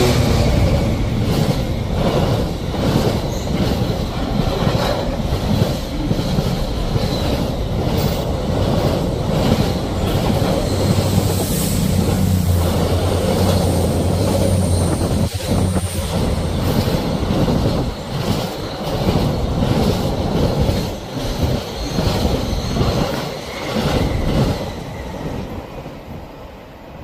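Diesel freight locomotive, a Class 66, passing close beneath at the start, then the long train of container wagons rumbling and clattering over the rail joints. A passenger multiple unit passes on the next track in the middle, adding a steady low engine tone. The noise fades near the end as the train clears.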